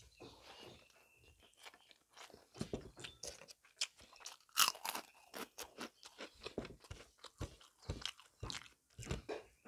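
Crisp fried papad bitten and chewed: a run of short, sharp crunches, with the loudest about halfway through.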